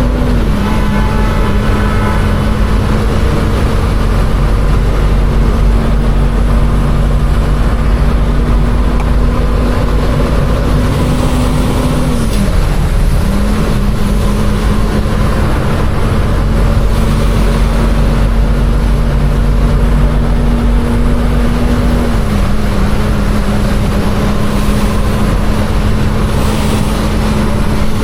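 Container truck's engine running steadily, with a brief dip in pitch about half a second in, again near the middle, and again about three-quarters of the way through.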